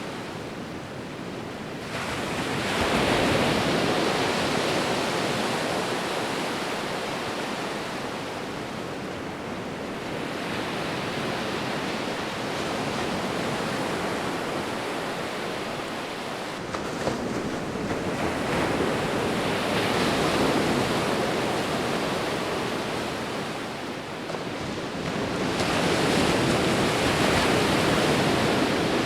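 Ocean waves washing onto the shore in a steady rush of surf. The surf swells loudly three times, about two seconds in, around seventeen to twenty seconds and again near the end, easing off between the swells.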